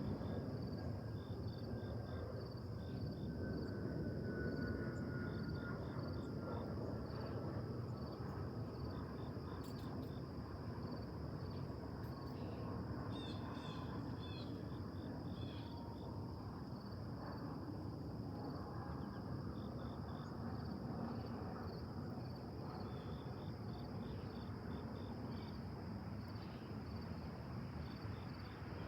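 Late-summer chorus of crickets and other insects: a steady high trill with groups of pulsed chirps repeating through it, over a low background rumble. A faint tone slowly falls in pitch over the first half.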